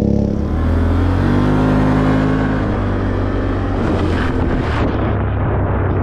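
Off-road vehicle engine running while driving, its pitch shifting and then rising about one to two and a half seconds in, under a steady hiss of tyres or rain.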